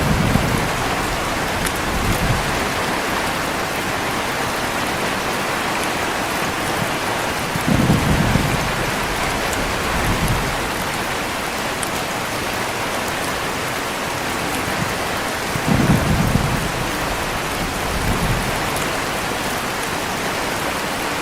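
Heavy rain falling steadily, with short low rumbles of thunder three times, near the start, about eight seconds in and about sixteen seconds in, each followed by a smaller rumble about two seconds later.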